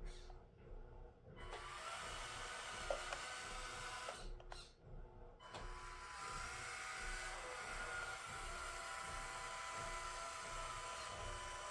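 Small electric drive motor and gearbox of a Huina 1/18 radio-controlled Scania S770 truck whining, its pitch sliding up and down as the speed changes. It starts about a second and a half in, cuts out briefly a few seconds later, then runs again.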